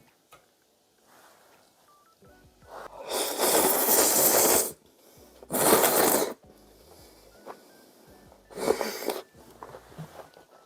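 Three loud, breathy rushes of air from a person eating ramen noodles, drawn in or blown out through the mouth. The first lasts nearly two seconds, the second about one second, and the third, near the end, is shorter.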